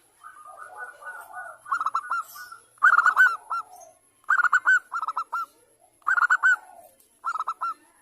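Zebra dove (perkutut) cooing: a soft rolling trill, then repeated short phrases of quick, ringing, arched coo notes, about one phrase a second.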